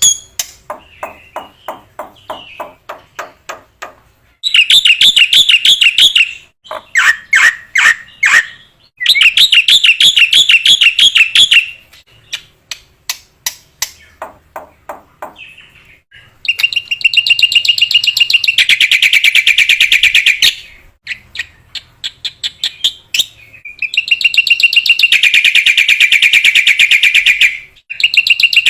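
Black-winged myna (jalak putih) singing: loud, fast chattering trills of rapidly repeated notes, in bursts of two to four seconds with short gaps between.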